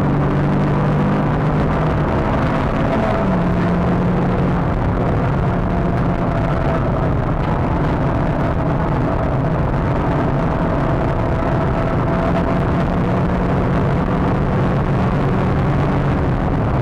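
Renault Clio 182 Trophy's 2.0-litre four-cylinder engine heard from inside the car at speed on track, running hard at a fairly steady pitch over wind and road noise. The engine note steps up about three seconds in and then holds.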